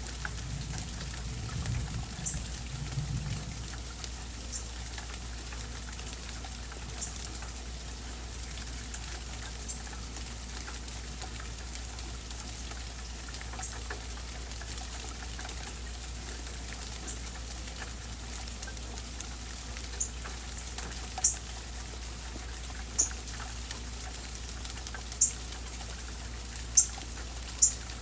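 Steady rain falling, with a low rumble dying away in the first few seconds. From about twenty seconds in come about half a dozen sharp, high ticks, a few seconds apart, louder than the rain.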